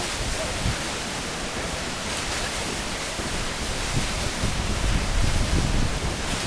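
Waterfall heard up close: a steady rush of falling water, with a rough low rumble of wind buffeting the microphone.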